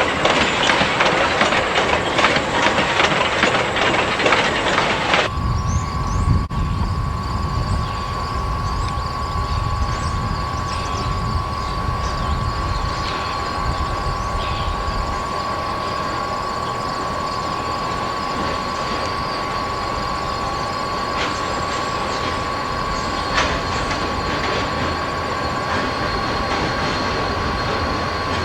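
Freight train rolling past, with rail-car wheels clacking over the track and a low rumble. About five seconds in the sound changes abruptly, and a steady high-pitched tone continues through the rest as the rumble fades away.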